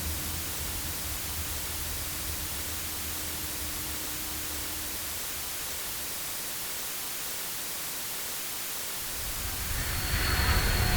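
Steady hiss of a jet airliner, its low rumble fading out about halfway through. Near the end a jet engine sound swells up with a thin high whine.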